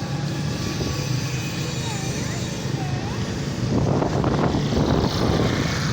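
Motorcycle engine running steadily on a city ride, with traffic noise around it. A louder rush of noise swells about four seconds in and fades about a second later.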